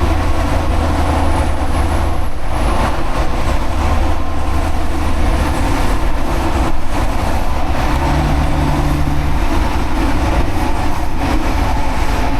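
Semi truck's diesel engine running with steady road noise, a continuous low drone with no break.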